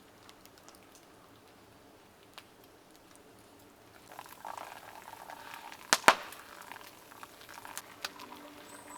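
Food bubbling and sizzling in a cooking pot, starting about four seconds in, with two sharp loud clicks close together around six seconds in.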